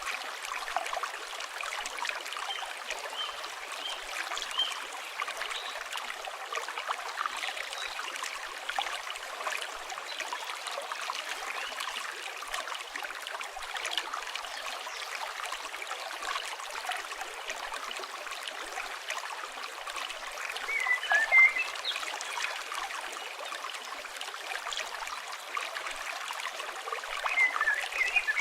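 River water flowing steadily, with a campfire crackling throughout. Birds chirp briefly a few times, most clearly about two-thirds of the way in and again near the end.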